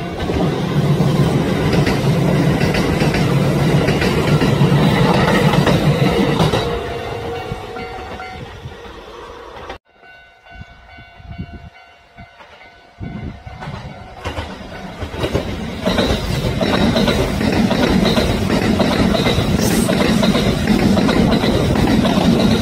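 A train running on rails with rumble and wheel clatter. The noise fades over a few seconds and breaks off abruptly about ten seconds in. It stays low for a few seconds, then comes back at full level from about fifteen seconds in.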